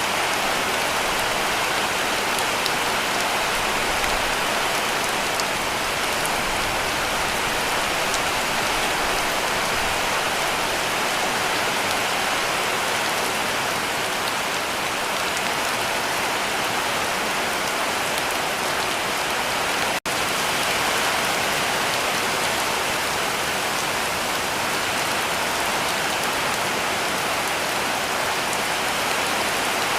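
Heavy rain falling steadily on a cabin roof: a dense, even hiss with a split-second gap about two-thirds of the way through.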